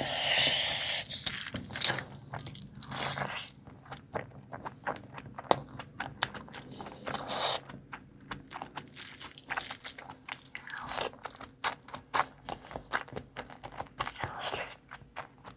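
Close-up crunching and chewing of crisp food: repeated sharp crunches from bites and chews, with no speech.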